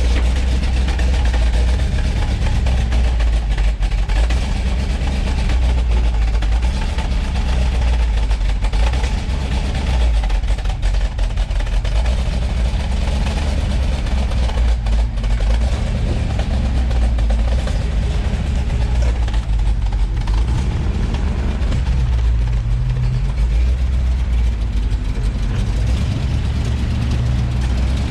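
The Black Ghost, a 1970 Dodge Challenger R/T SE with a 426 Hemi V8, running at low speed as it is driven slowly out, with a steady deep rumble and some background chatter.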